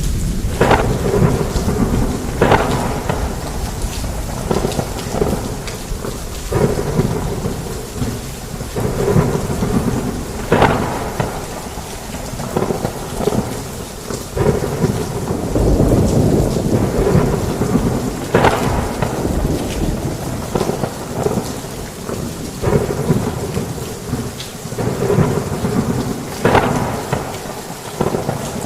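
Heavy rain falling on a roof through a thunderstorm, with thunder rumbling throughout and sudden sharper hits every couple of seconds.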